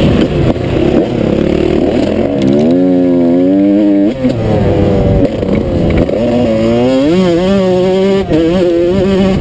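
Motocross dirt bike engine revving hard, the pitch climbing as the bike accelerates and dropping sharply at gear changes or when it backs off, about four seconds in and again near the end.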